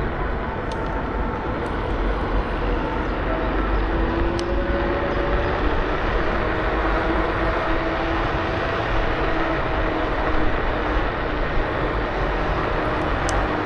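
Riding a KuKirin G2 electric scooter: steady wind rush and road rumble, with a faint motor whine that drifts slowly in pitch, and a few light clicks.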